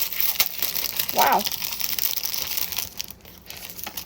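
Crinkling packaging being handled and pulled open, a dense run of crackles for about three seconds that fades near the end.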